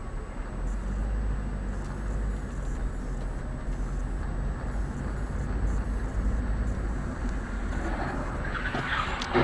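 Steady low engine and road rumble of a moving car, heard from inside. Near the end a rushing noise swells and is cut by a sharp bang just before the end.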